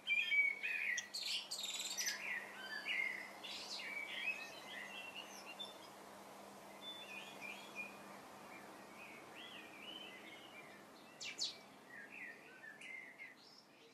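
Birds chirping and singing in short, wavy, high notes, fading gradually quieter toward the end.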